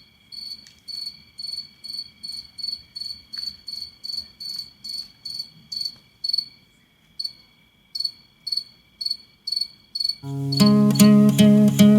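Cricket chirping in a steady, regular rhythm of about two to three high chirps a second, with a short pause near the middle. Acoustic guitar music comes in near the end.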